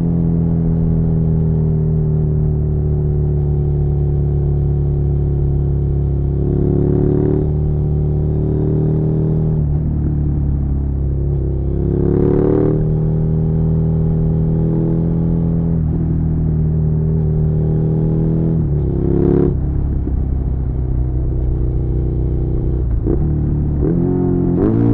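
Suzuki SV650's 645 cc V-twin engine running under way, its note holding steady and then shifting in pitch several times as the throttle and gears change, with a few short louder bursts.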